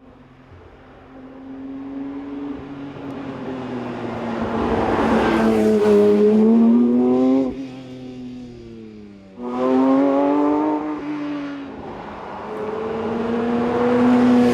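Porsche 911 S/T's 4.0-litre flat-six engine accelerating hard. Its revs climb, then the sound breaks off sharply, comes back loud and falls away, and climbs again.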